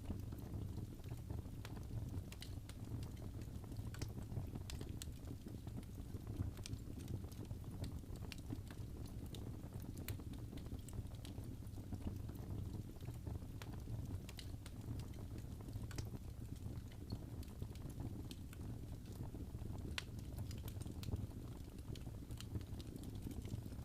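Wood fire in a fireplace crackling: irregular sharp pops and snaps, several a second at times, over a steady low rumble of the flames.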